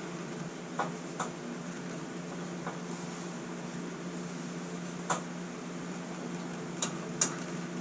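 Short, sharp clicks and taps of a mower deck belt and its tensioner pulley being handled as the belt is pulled to free it from the pulley, about six or seven in all, the loudest about five seconds in and near the end. A steady low hum runs underneath.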